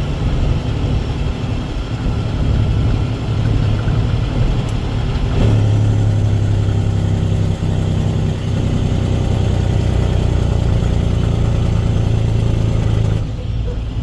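Dump truck's diesel engine running with a steady low hum. It grows louder about five seconds in and drops back near the end.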